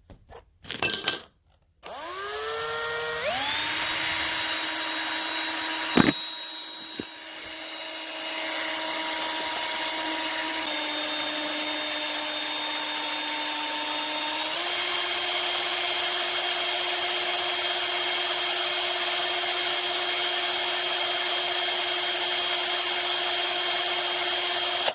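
Electric drill spinning up about two seconds in, then running at a steady whine that steps up in pitch twice, around eleven and fifteen seconds in. A couple of sharp knocks come around six and seven seconds in.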